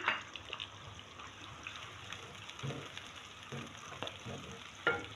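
Sliced onions, garlic, ginger and green chillies sizzling softly in oil in an aluminium wok, stirred with a wooden spoon, with a few light scrapes and knocks of the spoon against the pan.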